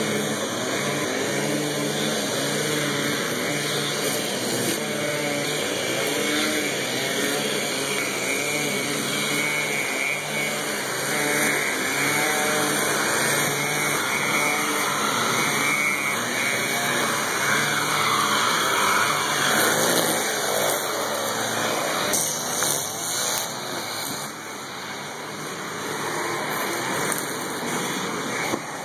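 A motor vehicle's engine running on the street, a steady low hum with traffic noise, dropping away near the end.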